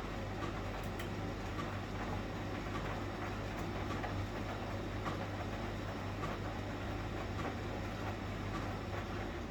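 1971 Constructa Garant 491 washing machine turning its drum during a boil wash: a steady motor hum with faint ticks, the motor stopping just before the end as the drum pauses between turns.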